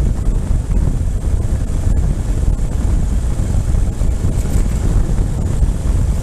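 Wind buffeting the microphone of a moving motorcycle: a loud, steady low rumble with no breaks.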